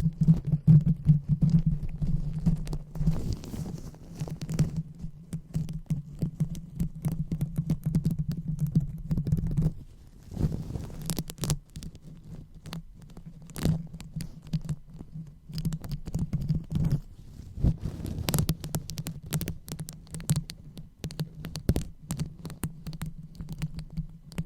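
Close microphone being rubbed and scratched: a muffled low rumbling with many small crackles and taps. The rumbling thins out about ten seconds in while the crackly taps carry on.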